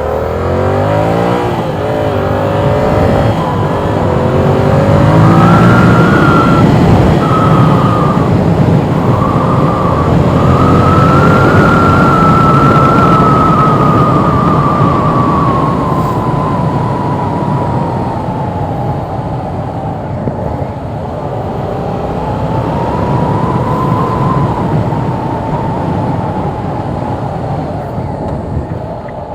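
Yamaha R7's parallel-twin engine accelerating hard, climbing quickly through several gears in the first few seconds. It is then held at high revs, the pitch sagging slowly in the middle and climbing again near the end.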